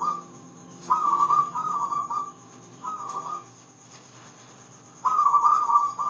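Zebra dove (perkutut) cooing in bursts of rapid, warbling whistle-like notes: a long phrase about a second in, a short one about three seconds in, and another starting near the end. A faint steady low hum runs underneath.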